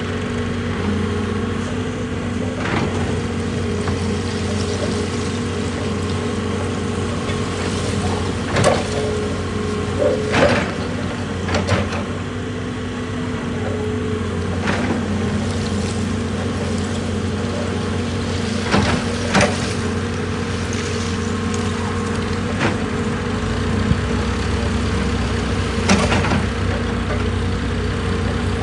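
Heavy diesel machinery running steadily, with sharp knocks at irregular intervals, about eight in all.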